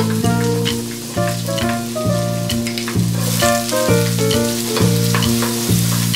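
Diced onion and cherry tomatoes sizzling in melted butter in a frying pan, stirred with a wooden spoon; the sizzle grows louder about three seconds in. Background music with a keyboard melody and bass plays throughout.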